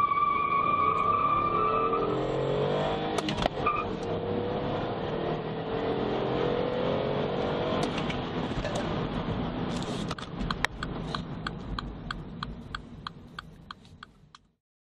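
2014 MINI Cooper's turbocharged 1.5-litre three-cylinder engine at full throttle through a 0–60 mph run, heard from inside the cabin. The revs climb, break at an upshift about three seconds in, then climb again through the next gear, with a high steady squeal over the first two seconds at launch. Near the end the engine eases off and fades out, with a run of regular ticks about three or four a second.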